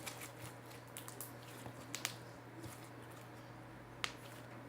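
A few faint, scattered clicks and light handling noises, the clearest about two and four seconds in, over a steady low hum from an electric fan.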